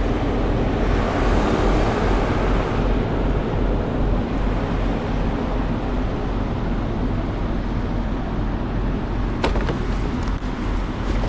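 Steady low engine rumble with a noisy hiss over it, and a few sharp clicks about nine and a half seconds in.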